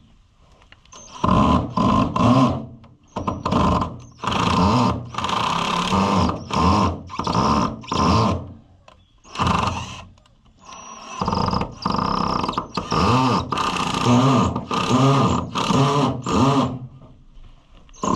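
Power drill driving Phillips-head screws in about a dozen short bursts, its whine bending up and down in pitch as it loads and lets off. The screws go in poorly and the bit struggles in them.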